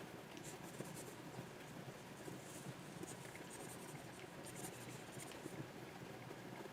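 Stylus nib scratching across the surface of a Wacom Pro 24 pen display in many short, faint strokes, over a steady low hum.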